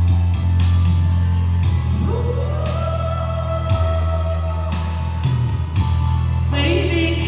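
A woman singing over an instrumental backing track with a strong, steady bass; about two seconds in her voice slides up into one long held note that lasts about three seconds.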